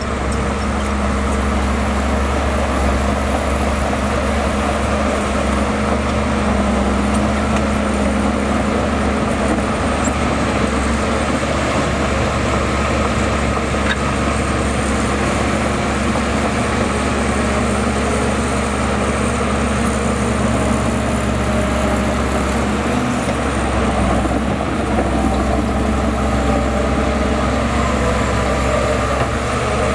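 Bulldozer's heavy diesel engine running steadily under load as it pushes soil, with a thin high whine over the deep drone.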